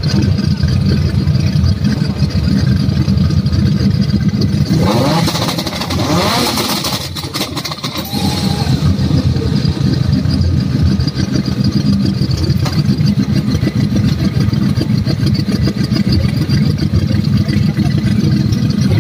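Modified drift cars' engines idling loudly and steadily. About five seconds in, an engine revs up with a loud hiss for about three seconds, then the idle drone carries on.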